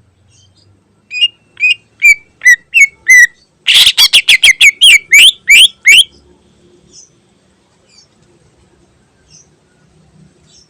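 Green leafbird (cucak ijo) singing: a string of sliding whistled notes about two a second, then a fast, louder volley of sweeping notes about four seconds in, fading to a few faint notes.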